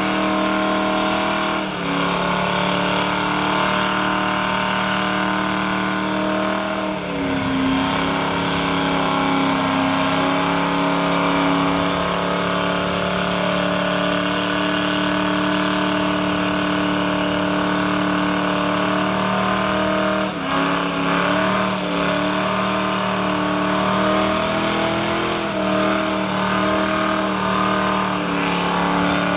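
Car engine held at high revs through a long burnout, the rear tyres spinning and smoking on the pavement. The revs stay steady with brief dips about 2, 7 and 20 seconds in.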